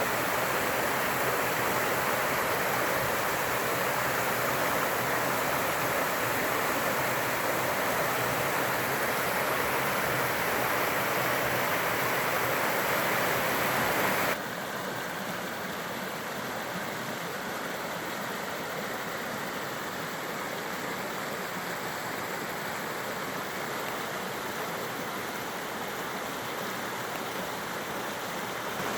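Running water rushing steadily in a stream. About halfway through it drops suddenly to a softer, duller rush and stays there.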